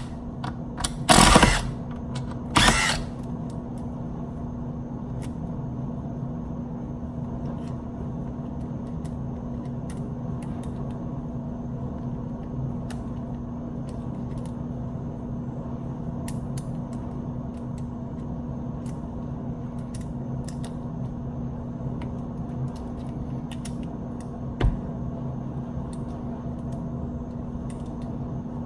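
Cordless impact driver on its high-torque setting, hammering in three short bursts about a second apart, followed by a steady low hum with small clicks and one short thump.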